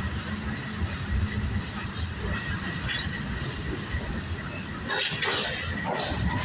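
Norfolk Southern train rolling past: a steady low rumble of railcars on the track with wheel clatter, and high-pitched wheel squeals about five seconds in.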